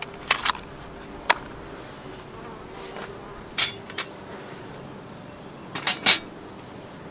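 An insect buzzing with a faint steady drone, broken by several short sharp knocks and clatters, in a cluster about half a second and a second in, again around three and a half to four seconds, and the loudest just before six seconds.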